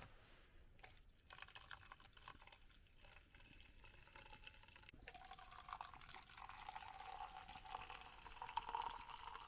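Liquid being poured into a container while coffee is made: a faint pouring sound. From about five seconds in, its tone rises steadily as the container fills.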